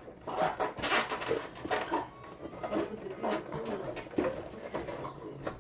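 Irregular clicks and knocks of plastic and metal parts being handled while an LG stand air conditioner is taken apart.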